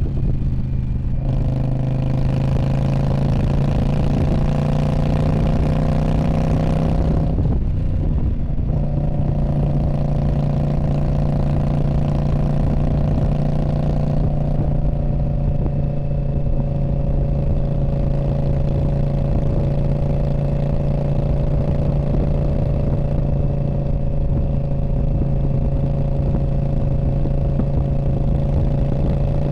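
2019 Indian Scout Bobber's 1133 cc V-twin through a Freedom Performance Radical Radius exhaust, under way: the engine note climbs slightly for several seconds and breaks off briefly about seven seconds in, like a gear change, then settles into a steady cruise.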